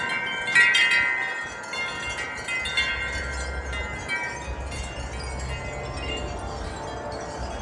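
Metal wind chimes ringing in a strong, gusty wind, a cluster of overlapping chime strikes in the first half that thins out to fewer, softer notes later. A low rumble of wind on the microphone comes in about two and a half seconds in.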